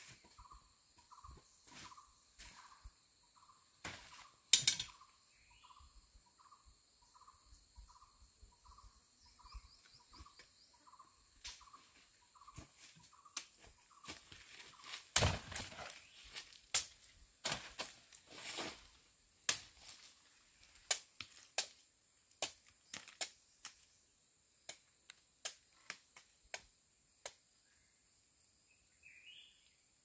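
A bird calling in a steady series of short notes, about one and a half a second, which stop about halfway through. A faint steady high hum runs under it. Sharp knocks and taps come throughout and crowd together in the second half, with the loudest about four and a half seconds in and about fifteen seconds in.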